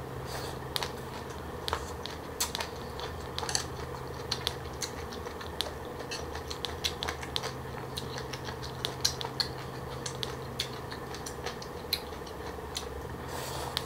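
Crunchy chewing of shredded green papaya salad: an irregular run of crisp crackles over a steady low hum.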